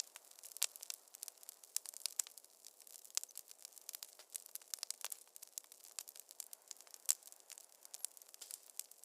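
Wood fire crackling in a fireplace: many irregular sharp pops and snaps over a faint steady hiss of burning.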